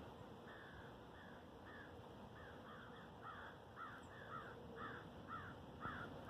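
A bird calling in a faint series of short repeated notes, about two a second, growing a little louder toward the end.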